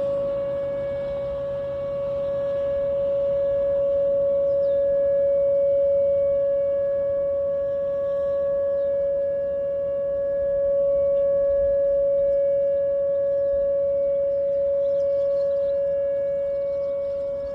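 Whelen 2905 tornado warning siren sounding a steady alert tone at one fixed pitch, its loudness swelling and fading slowly every few seconds.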